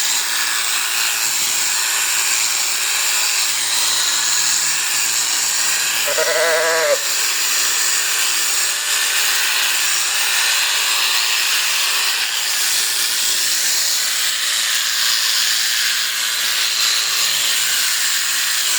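Electric sheep shears running with a steady high-pitched buzz. A sheep bleats once, a wavering call of about a second, about six seconds in.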